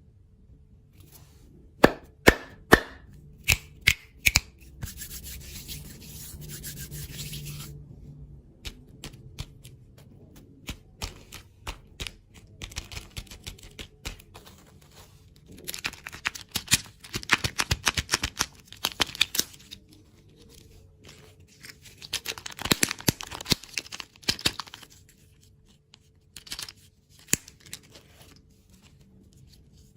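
Close-miked ASMR handling and eating of candy and desserts: several sharp snaps about two seconds in, a few seconds of crinkling, then scattered clicks and two long bursts of dense crackling and crunching, near the middle and again later.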